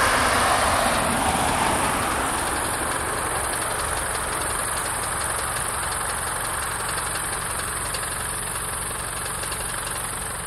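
Diesel-hauled passenger train running away down the line, the rumble of its locomotive and its wheels on the rails slowly fading.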